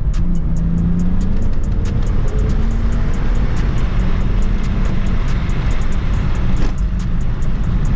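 BMW E46's swapped-in 3-litre M54 straight-six pulling away, its note rising in the first second, then running hard with heavy road and engine noise inside the cabin. Music plays in the car over it, with a steady ticking beat.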